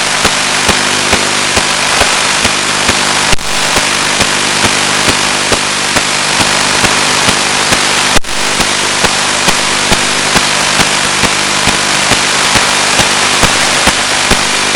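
Loud, steady static hiss from an analog FPV video receiver's audio channel, with a low hum, clicks about twice a second, and two brief dropouts at about three and eight seconds in.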